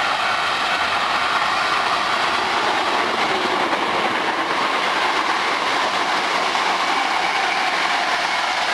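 Hankyu electric commuter train passing close by: steady noise of steel wheels running on the rails.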